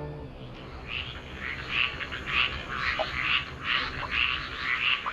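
A chorus of frogs calling at night, many short calls overlapping and repeating a few times a second.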